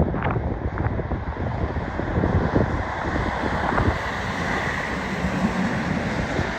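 Road traffic noise, a vehicle's engine rumble and tyre noise, easing a little in the first second and then holding steady, with wind buffeting the microphone.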